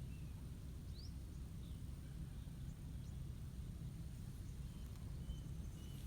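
Faint outdoor ambience: a steady low rumble with a few faint, short, high bird chirps scattered through it.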